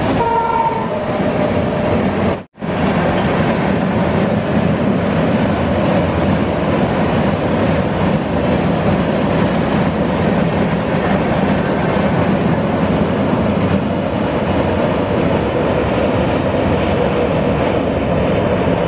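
Indian Railways passenger train running past at speed: a steady rumble of coach wheels on the rails. It breaks off briefly about two and a half seconds in, then carries on as the coaches cross a steel truss bridge.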